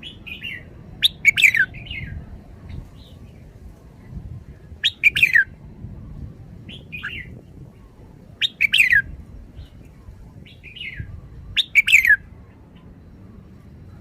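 Red-whiskered bulbul singing: four short, loud phrases of quick falling whistled notes, spaced about three and a half seconds apart, with softer single calls between them.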